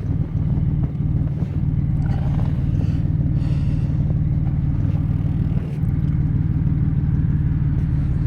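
Car engine idling steadily through an aftermarket Flowmaster exhaust, a constant low drone.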